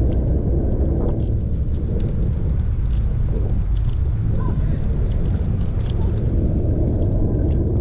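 Wind buffeting the microphone of a chest-mounted action camera on a moving bicycle: a steady low rumble, with a few faint ticks over it.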